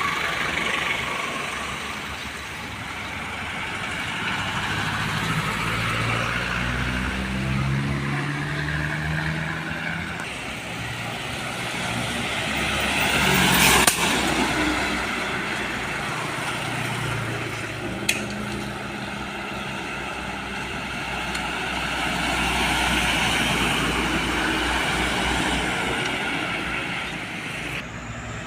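Heavy diesel trucks passing on a road, their engines rising in pitch in steps as they pull away through the gears. The loudest vehicle goes by close about two-thirds of the way through, with a brief sharp click a few seconds later.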